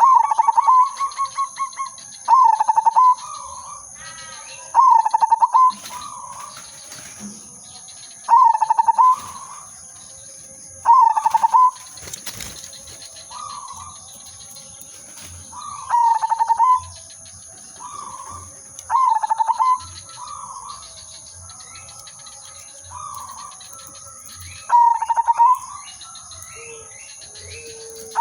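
Zebra dove (perkutut) cooing: about eight loud phrases of rapid, pulsed coos, each under a second long and a few seconds apart, with fainter coos in between.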